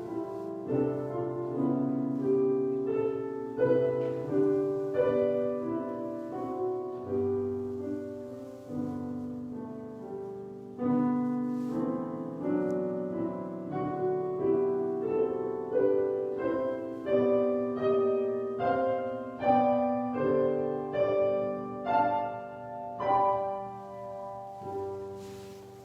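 Solo piano playing a slow, hymn-like instrumental piece, chords and melody notes struck one after another, each ringing and fading; the music dies away near the end.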